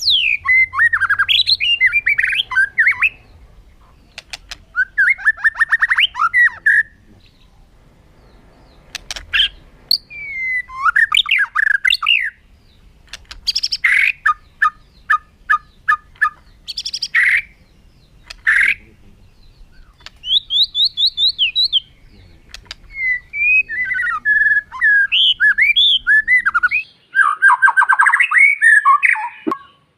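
White-rumped shama (murai batu) singing: loud phrases of varied whistles, fast trills and harsh notes, with short pauses between them. One phrase is a run of about six evenly spaced repeated notes.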